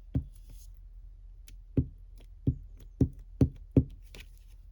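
About six dull knocks on a craft tabletop, spaced irregularly and coming closer together towards the end, as glued paper pieces are pressed and patted down by hand.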